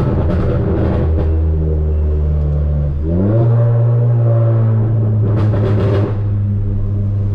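Stage 2 tuned Volkswagen Polo GTS's turbocharged 1.4 TSI four-cylinder running through a sports exhaust at a steady drone. About three seconds in, the revs rise quickly and hold at a higher, steady pitch. A few brief clicks sound over it.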